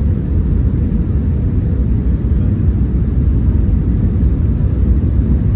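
Steady low rumble of Airbus A321neo cabin noise in flight, the engines and airflow heard from inside the cabin, with a faint steady hum over it, as the aircraft descends toward landing.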